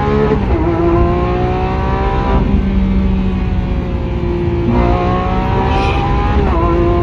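Lamborghini Aventador SVJ's 6.5-litre V12 with a Balboni aftermarket exhaust, running hard under load. Its note breaks and shifts in pitch about every two seconds, as at gear changes.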